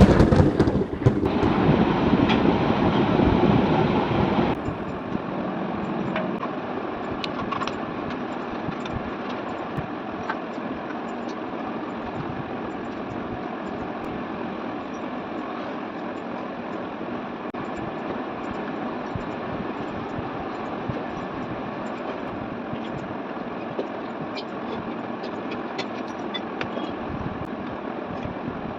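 Ceiling fan running with a steady rushing whir and scattered light clicks. The sound is louder for the first four or five seconds, then settles to an even level.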